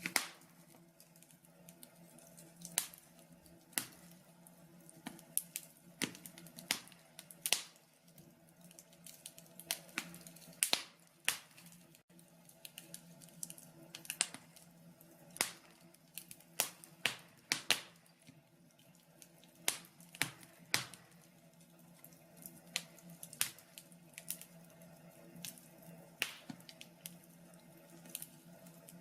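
Wood fire in a log burner crackling, with irregular sharp pops and snaps over a faint steady hum.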